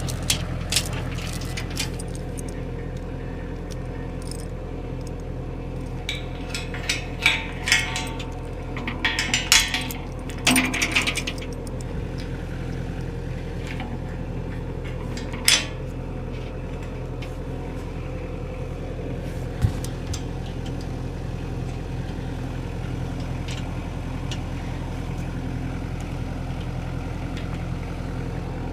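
An engine idling steadily, with a burst of metallic clinks and clanks from about six to eleven seconds in and two more single metal knocks later on, as parts of the sawmill are handled.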